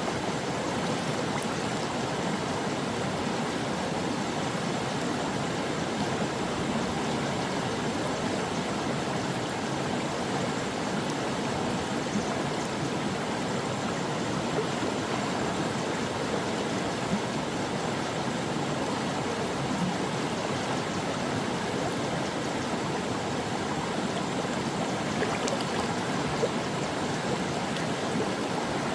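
A shallow stream babbling steadily over rocks, an even rush of flowing water with no let-up.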